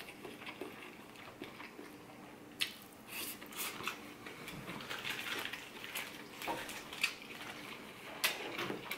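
Close-up chewing of a mouthful of fried rice and shrimp, with a few small sharp knocks as the hollowed-pineapple bowl is handled on the wooden board.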